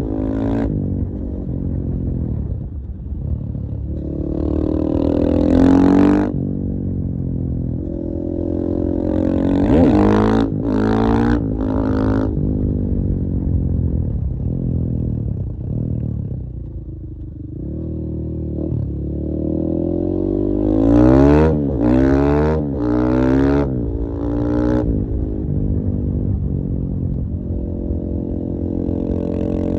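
KTM 450 EXC-F single-cylinder four-stroke enduro engine running, its revs rising and falling again and again, with quick blips of throttle around 5 s, 10–12 s and 21–24 s and a dip in revs near the middle.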